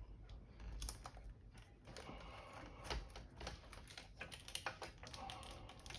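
Irregular light clicks and taps of small objects being handled and set down on a workbench.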